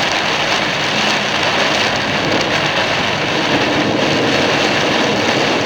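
Torrential rain pelting a moving car, mixed with tyre noise on the flooded road: a steady, loud rushing hiss.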